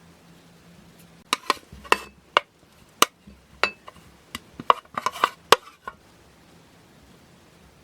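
Kitchen utensils knocking and clinking against dishes: about a dozen irregular sharp clicks and clatters, some briefly ringing, over about five seconds, then it goes quiet.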